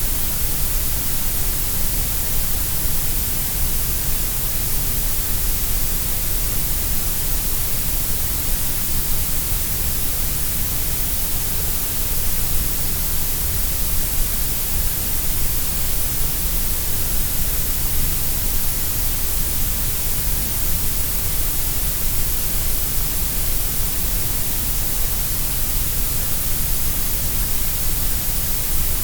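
Steady synthetic grey noise: an even hiss across the whole range, boosted at the low and high ends with a dip in the middle, unchanging throughout.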